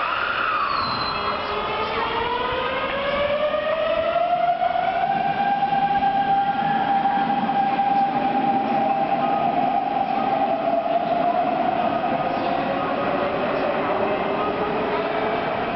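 Hanshin 9000 series electric train pulling out and accelerating, its VVVF inverter whining in stacked tones over the rumble of the train. The tones drop sharply at first, then climb for several seconds and hold steady before easing down slightly near the end.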